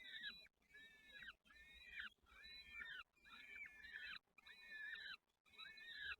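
Nestling songbirds cheeping in repeated bouts of overlapping high calls, about one bout a second: chicks begging for food in the nest.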